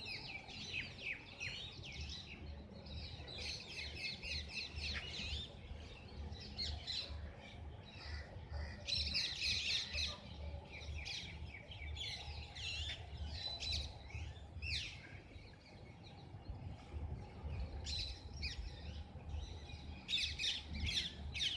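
Birds chirping throughout, in quick runs of short high chirps, over a low rumble.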